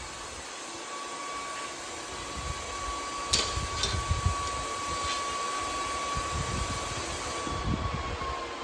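Plasma cutter cutting steel plate: a steady hiss of air with a thin high whine that dips slightly in pitch near the end, and a few sharp clicks around the middle.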